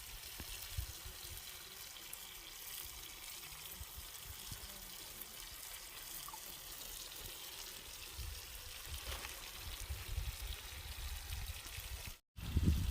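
Water trickling and pouring, a steady hiss, with low rumbles joining in from about eight seconds in and a brief cut to silence near the end.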